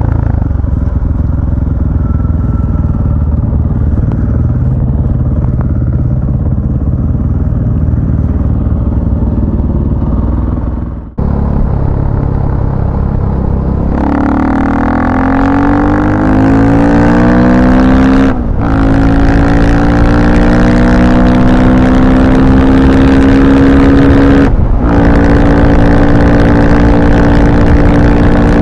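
A motor vehicle engine runs at a steady low note, drops out briefly about eleven seconds in, then accelerates hard. Its pitch climbs, dips at an upshift, climbs again, and dips at a second upshift a few seconds before the end.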